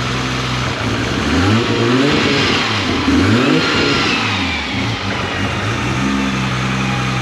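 Toyota Supra engine running through a 4-inch titanium ARTEC exhaust with a branch-off resonator, idling, then revved twice, the pitch rising and falling each time, before settling back to a steady idle about six seconds in.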